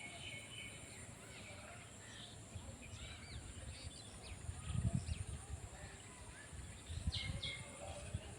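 Small birds chirping in short scattered calls, with low rumbling bumps on the microphone about five and seven seconds in.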